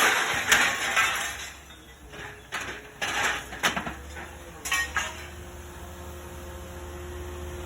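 Metal clanking and clinking: a loud clash, then several sharp strikes over the next five seconds, after which a steady machine hum remains.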